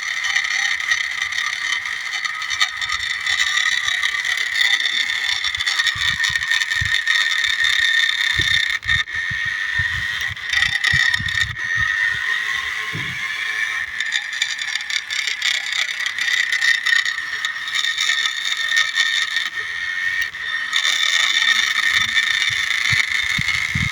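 Remote-control New Holland toy tractor's electric drive motor and gearbox whining steadily as it climbs a dirt slope unloaded, with scattered low knocks and rattles as it crawls over the rough ground.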